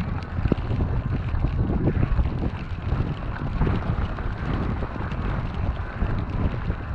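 Wind buffeting a GoPro action camera's microphone while an e-mountain bike is ridden through snow: a steady low rumble with many small knocks and crackles from the bike and its tyres.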